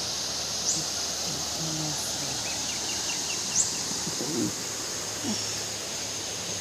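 Steady hiss of a calm river, with a few short bird chirps and a brief run of quick ticking calls near the middle.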